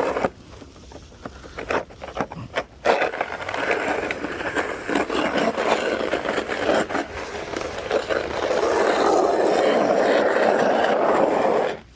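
Snow shovel scraping along the pavement, pushing snow. A few knocks in the first seconds, then a steady scrape from about three seconds in that stops abruptly near the end.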